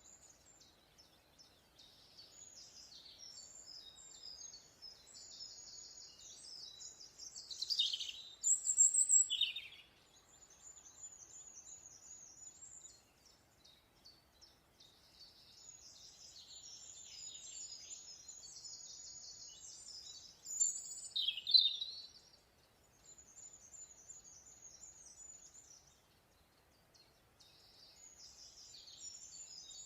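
Songbirds singing long runs of rapid, high-pitched notes in phrases separated by short pauses, with a few louder, lower sweeping notes about eight seconds in and again about twenty-one seconds in.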